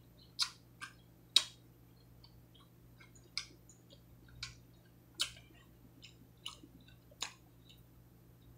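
A person eating cheese-topped breaded chicken: chewing with about eight short, sharp clicks and smacks scattered through, the loudest about a second and a half in.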